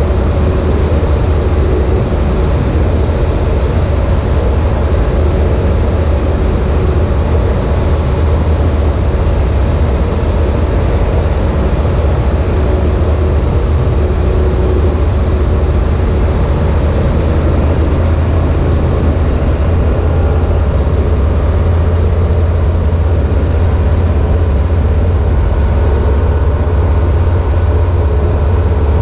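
Engine and propeller of an Evektor EuroStar EV-97 light aircraft, heard from the cockpit as a steady, loud drone at constant power.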